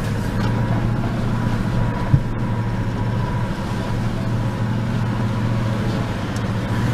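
Four-wheel-drive vehicle's engine running steadily, heard from inside the cab as it fords a shallow, muddy creek crossing, with one short knock about two seconds in.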